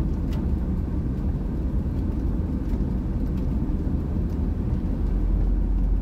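Old diesel camper van driving: a steady low engine and road rumble, growing slightly heavier about five seconds in.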